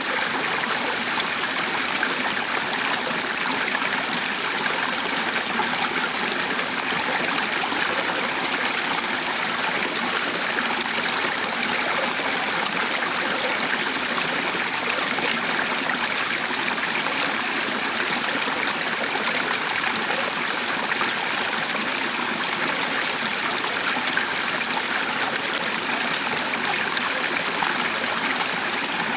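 Stream water flowing with a steady, even rush that does not change.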